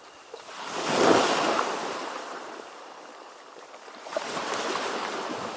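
Ocean waves breaking and washing in. One surge peaks about a second in and fades, and another builds about four seconds in.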